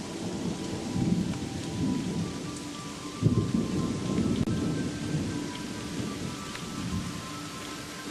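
Thunder rumbling over steady rain, with a louder roll of thunder about three seconds in.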